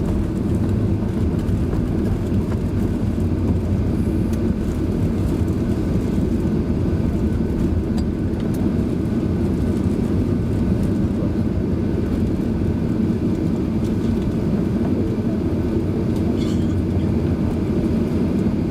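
Steady low rumble inside the cabin of a Boeing 737-700 as it rolls along the ground after landing, engines and airflow producing an even noise with no distinct events.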